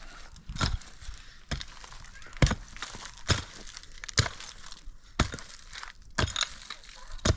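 A steady series of sharp striking blows, about one a second, eight in all, each a short crack or knock.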